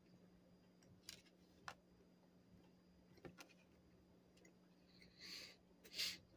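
Near silence with a few faint clicks of a person chewing a bite of plain old-fashioned cake donut, then two short hissing noises near the end, the second the loudest.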